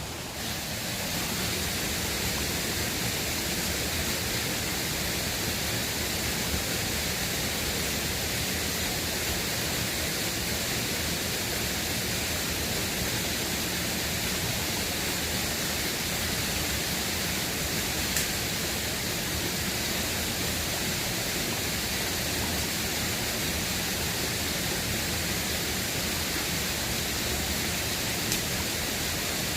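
River water rushing in a steady, even hiss, with a couple of faint clicks.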